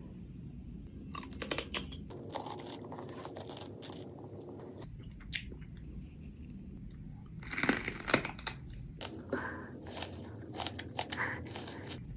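Close-miked crunching and chewing of crunchy raw green vegetables, in several clusters of crisp bites over a steady low background.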